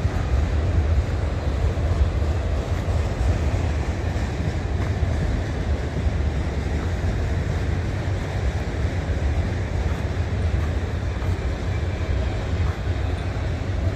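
Freight cars of a long freight train rolling past close by, a steady rumble of steel wheels on the rails.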